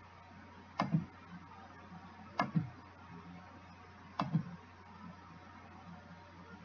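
Three computer mouse clicks, each a quick press-and-release, spaced about a second and a half apart, as points of a polygon are placed in drawing software. A faint steady low hum runs underneath.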